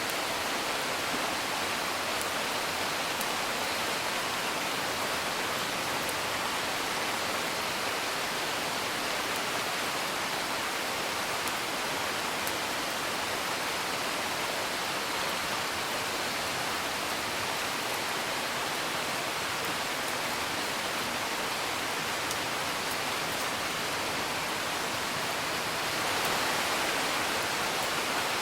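Steady rain falling, an even rushing patter, with a few faint crackles from a wood fire. It swells slightly near the end.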